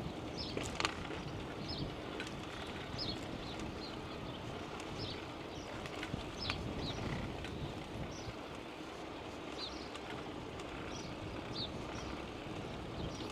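Steady wind and rolling noise on a camera riding a bicycle, with short high chirps repeating irregularly about once or twice a second.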